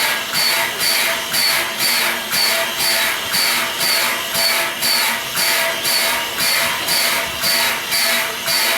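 Steam locomotive No. 89 chuffing steadily, about two exhaust beats a second at an even pace.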